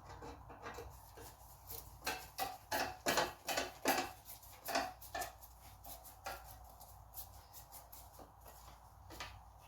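Irregular light clicks and taps of a screwdriver, small screws and a side cover being handled while the moped's side cover is taken off, busiest in the middle and thinning out near the end.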